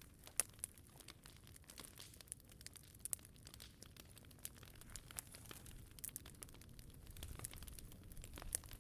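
Wood fire crackling faintly in a POMOLY T-Brick Ultra, with irregular sharp snaps and pops; the loudest pops come just after the start and near the end.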